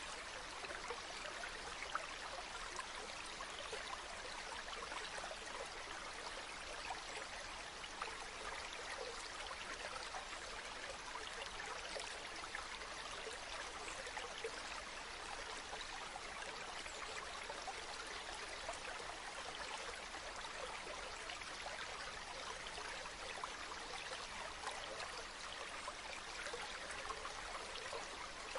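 Running water, a stream or falls, rushing steadily and evenly with a fine splashing texture and no distinct events.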